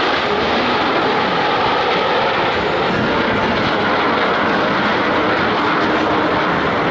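Loud, steady aircraft engine noise holding at one level, with no clear rise or fall.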